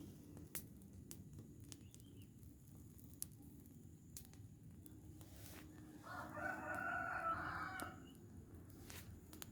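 A rooster crows once, about six seconds in, one call of roughly two seconds, over scattered crackles and pops from a burning rubbish pile.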